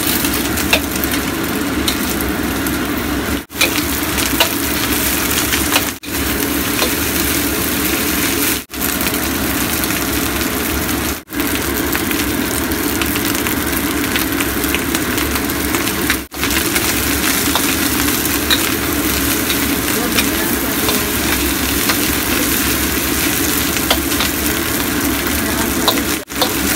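Fried rice with diced ham and egg sizzling in a steel wok, stirred and scraped with a metal spatula. The sizzle cuts out for an instant six times.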